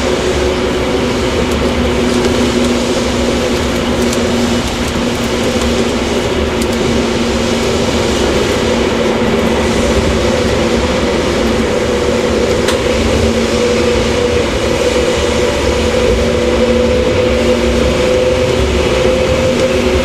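Japanese 115 series electric train (motor car KuMoHa 115-318) running at speed, heard from inside the car: a steady rumble with a humming whine that rises slightly in pitch in the second half.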